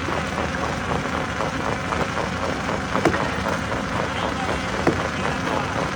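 Stone crusher machine running: a steady, dense mechanical rumble with a few sharp knocks, about three seconds in and again near the end.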